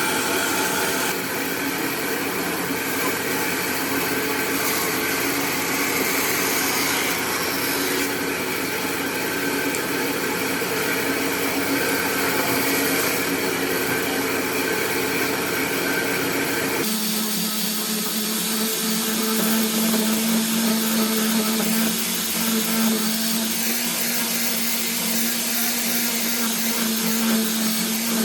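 Electric power tools running steadily, with an abrupt change to a different, steadier hum about seventeen seconds in.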